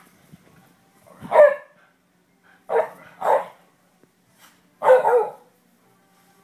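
Dog barking during play: four short barks, two of them close together in the middle.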